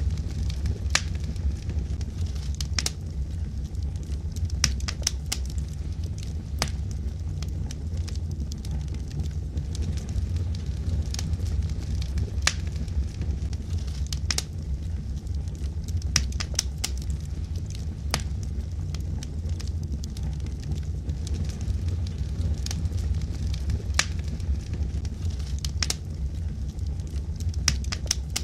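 Wood fire burning: logs crackle and pop in sharp, irregular snaps, roughly one a second, over a steady low rumble of the flames.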